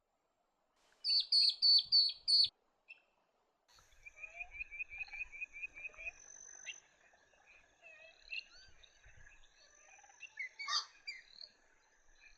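Several birds calling. About a second in comes a loud series of about five sharp notes. It is followed by an even trill of about ten notes, some four a second, and then scattered mixed calls over a thin steady high tone.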